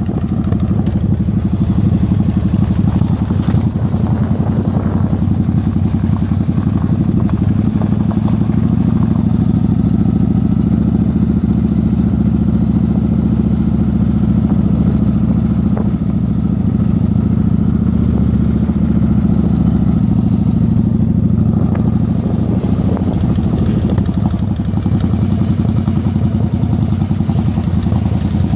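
Yamaha Virago 1100's air-cooled V-twin engine running steadily, its note shifting slightly about a third of the way in and again past two-thirds, with wind noise on the microphone.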